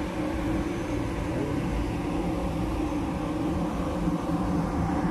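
Taiwan Railway electric multiple-unit commuter train moving along the adjacent track: a steady running rumble with a low hum.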